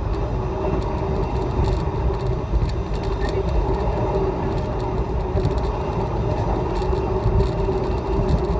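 Passenger train running at speed, heard from inside the carriage: a steady low rumble of the wheels on the rails with a constant hum over it.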